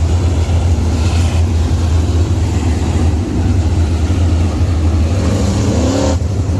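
Race car engine running with a steady, loud low drone.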